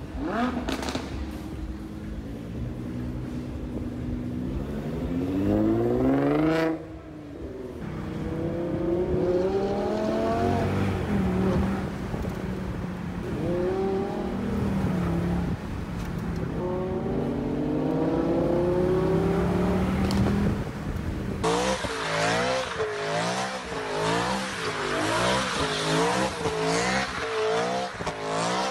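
High-performance car engine revving hard, its pitch climbing through the gears, with a sharp rise and a sudden drop about seven seconds in. Later the engine pitch swings up and down over and over, about one and a half times a second, with tyre squeal over it.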